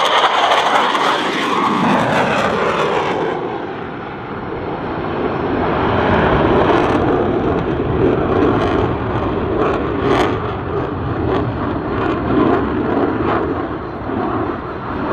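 F-15 Eagle fighter's twin turbofan engines on a high-speed pass. The jet noise falls in pitch over the first few seconds as it goes by, dips, then swells again into a steady loud rumble.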